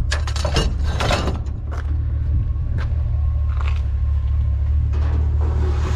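Vehicle running with a steady low rumble, with several short knocks and rattles over it, a cluster of them in the first second or so.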